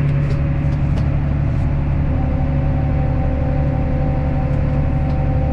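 Tractor engine running steadily under load, heard from the cab, with a low rumble. About two seconds in, a steady higher whine joins it and holds.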